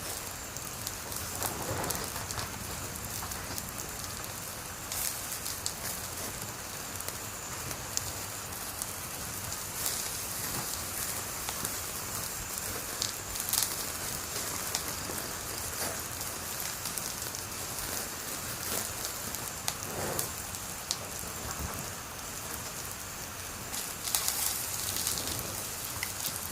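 Wood fire burning with a steady hiss and frequent crackles and pops, a few louder snaps about halfway through and near the end.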